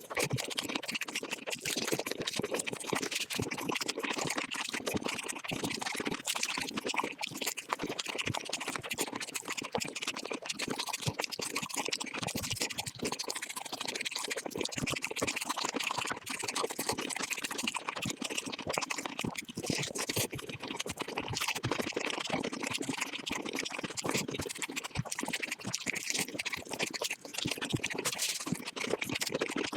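Close-miked eating sounds of chicken dishes played back about five times faster than normal: a dense, unbroken stream of rapid crunching clicks and wet chewing.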